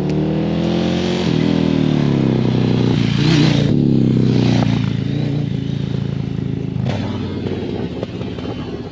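Sport motorcycle engine accelerating, its pitch rising with a brief drop about a second in. It is loudest about three and a half seconds in, then runs steadily and slowly fades.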